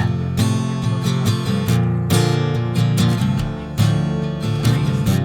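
Acoustic guitar strummed in chords, with repeated strokes ringing on.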